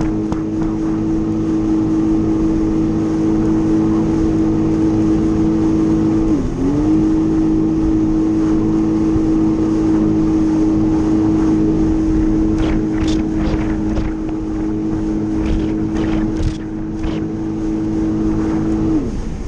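Jet ski engine running at a steady cruising pitch. The pitch dips briefly and recovers about a third of the way through, then drops off near the end as the throttle comes back. Several sharp slaps come in the second half.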